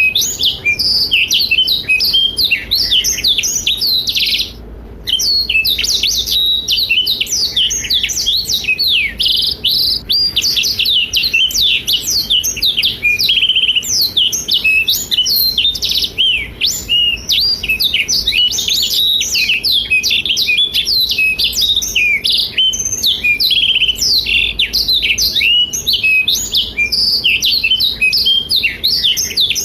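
Black-throated canary (blackthroat) singing in full, non-stop song: a long, fast, high twittering warble of rapid sweeping notes, broken once by a short pause about five seconds in.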